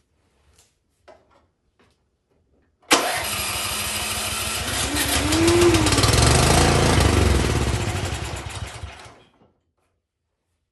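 Cub Cadet snowblower engine catches suddenly about three seconds in, runs for about six seconds with its speed surging up and back down, then dies. It is running only on the fuel sprayed into it; the owner suspects that gas is not reaching the carburettor.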